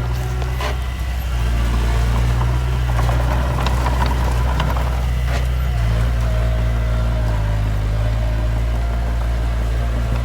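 Diesel engine of heavy earthmoving machinery running steadily, with a few sharp knocks and a faint whine for a couple of seconds past the middle.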